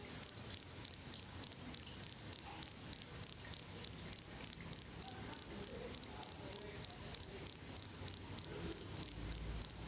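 A cricket chirping steadily: a regular train of identical high-pitched chirps, about three a second.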